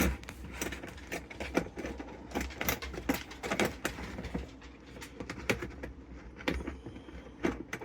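Irregular clicks and knocks of hard plastic intake parts being handled and fitted while swapping a truck's air box and mass airflow sensor, several a second, over a steady low hum.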